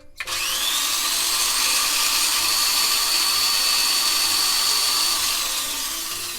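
A small high-speed power tool motor spins up with a rising whine, runs steadily with a loud hiss for about five seconds, then winds down and fades near the end.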